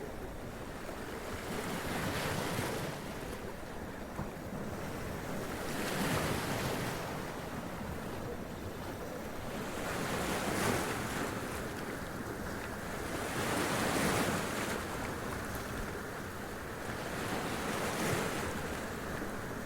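Sea waves splashing and running up over rocks, each surge of water swelling and draining back, about every four seconds.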